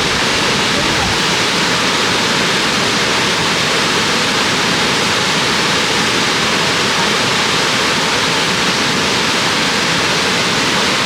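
Steady, loud rush of the Shirahige Falls, many streams of water pouring about 30 m down into the river gorge.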